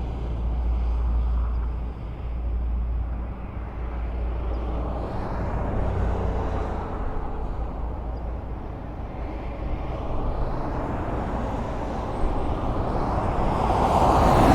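Highway traffic: the steady rushing of cars and their tyres on the road. A deep rumble fades away over the first few seconds, and a vehicle grows louder as it approaches near the end.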